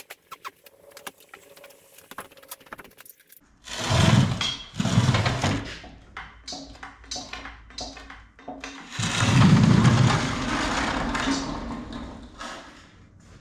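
Light metallic clicking and clinking, then loud scraping and clattering of heavy metal parts being handled, with a longer rough grinding stretch near the end.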